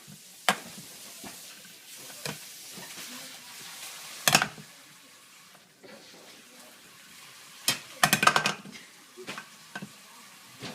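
Dishes and utensils clinking and clattering as they are handled, over a steady hiss that fades about halfway through. There is a sharp clatter a few seconds in and a quick run of clinks near the end.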